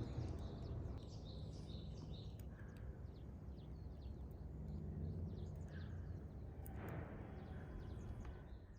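Small birds chirping again and again over a steady low outdoor background noise, all fading out at the very end.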